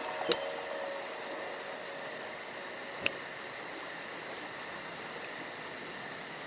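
Insects chirping in a fast, even pulse, about five a second, over a steady high drone. There is one sharp click about a third of a second in and another about three seconds in.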